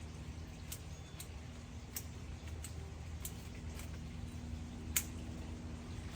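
Scattered sharp snaps of small twigs and branches during tree trimming, roughly one a second, the loudest about five seconds in, over a steady low hum.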